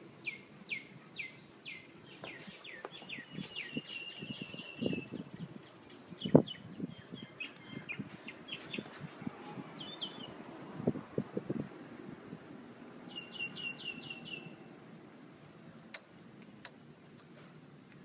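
Birds chirping outdoors: strings of short, quick, falling chirps, with a fast trill about thirteen seconds in. A few dull knocks from the camera gear being handled stand out below them, the loudest about six seconds in.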